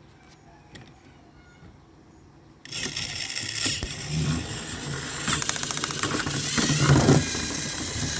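Battery-powered toy train engines switched on about a third of the way in, their motors whirring and their plastic bodies and wheels rattling as they push against each other on the track.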